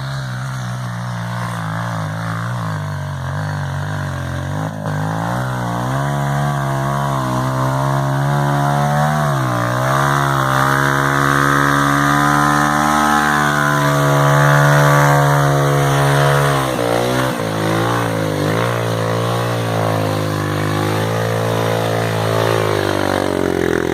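Trail motorcycle engine revving hard under load on a muddy climb. Its pitch rises and falls repeatedly, is loudest about two-thirds of the way through, and drops briefly twice.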